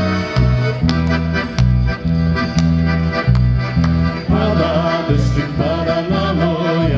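Accordion playing a folk tune, with its bass notes pulsing in an even rhythm under the melody.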